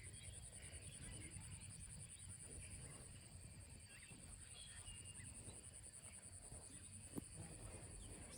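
Faint rural evening ambience: a steady, pulsing high chirring of insects, with a few faint bird chirps and a low rumble of wind. One sharp click about seven seconds in.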